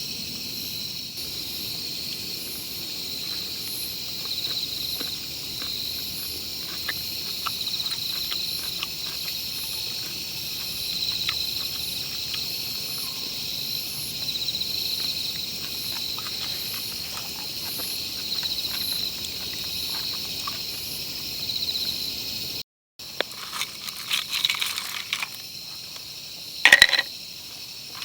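Insects chirping in a steady chorus, a constant high trill with a faster pulsing chirp above it. After a sudden break near the end, scattered crackling and one sharp snap take over.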